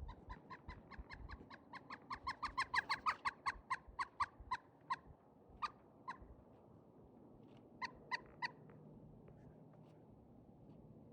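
Pileated woodpecker calling: a long run of loud, evenly spaced notes, about four a second, that swells and then fades over about five seconds, followed by a couple of single notes and a short run of three.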